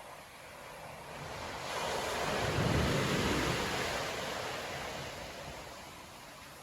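Storm surf: one large wave breaking and washing up the beach. It builds about a second in, peaks with a deep rumble near the middle, then fades away.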